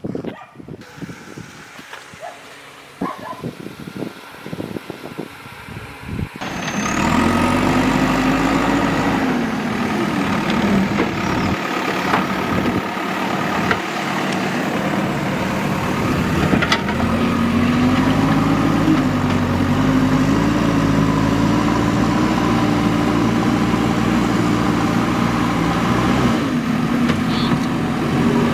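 Scattered knocks and clicks for the first few seconds. Then, about six seconds in, a heavy diesel engine of construction machinery comes in suddenly and runs loudly to the end, its revs rising and falling as it works.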